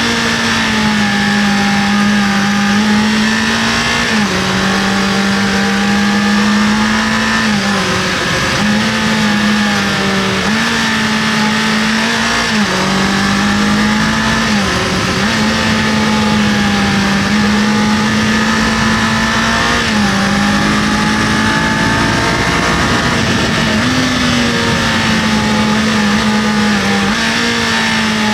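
Kawasaki KLE500 parallel-twin engine pulling at steady riding revs, its note stepping slightly up and down every few seconds as the throttle is opened and eased, with steady wind noise over the microphone.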